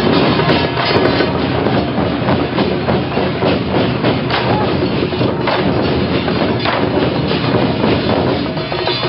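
Loud, dense din of a temple procession: traditional percussion and music with a constant run of sharp clacks and clicks.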